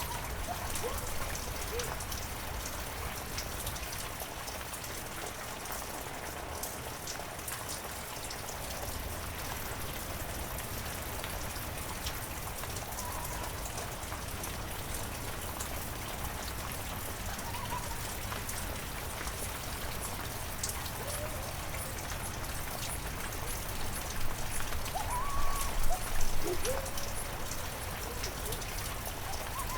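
Heavy rain falling steadily. A few short pitched calls sound now and then over the rain, and there is a louder stretch about 25 seconds in.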